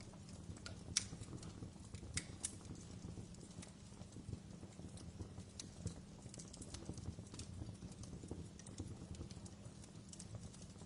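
Wood fire in a fireplace crackling: scattered sharp pops and snaps over a low steady rumble of the flames, the loudest pop about a second in.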